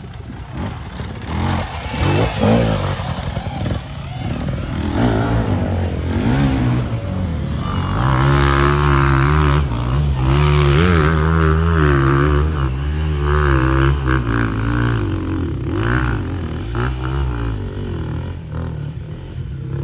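Off-road motorcycle engine on a dirt track, revving up and down with repeated throttle changes, loudest through the middle of the stretch, then easing off.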